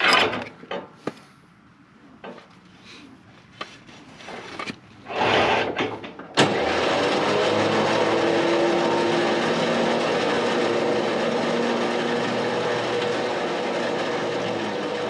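A few knocks and clicks of handling, then about six seconds in a sharp click and a tow truck's lifting motor starting and running steadily as it raises a dirt bike on the hook.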